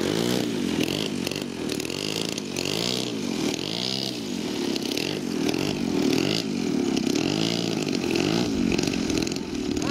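Small model airplane engines running at speed, their pitch rising and falling over and over, about once a second.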